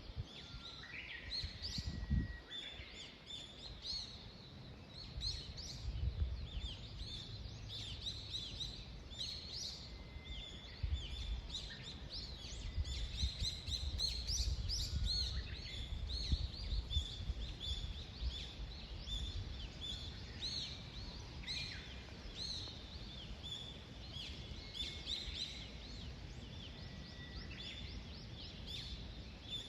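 Small songbirds chirping and singing, many short overlapping calls and a few held whistles, with a low rumble underneath.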